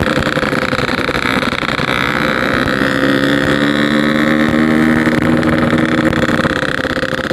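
Yamaha RX-King 135cc two-stroke single-cylinder motorcycle engine running steadily while riding, its note holding at an even pitch.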